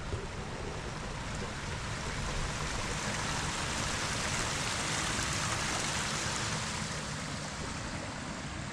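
Steady rushing water that swells gently toward the middle and eases a little near the end, over a low rumble.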